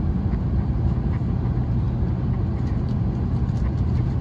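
Steady low rumble inside the cabin of an Airbus A321 airliner on the ground, with a constant hum under it.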